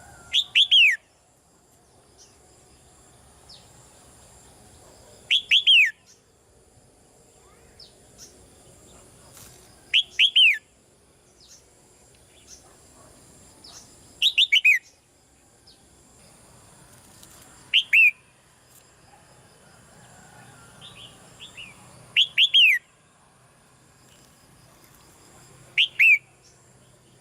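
Red-whiskered bulbul calling: seven short, loud bursts of two or three quick downslurred whistles, about one every four seconds.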